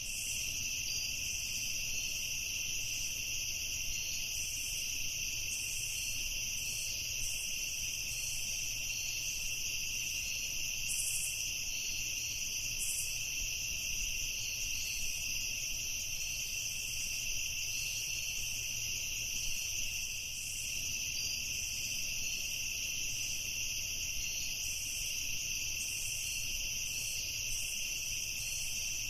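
Night chorus of crickets chirping steadily and without a break, with a faster, uneven chirping higher in pitch on top.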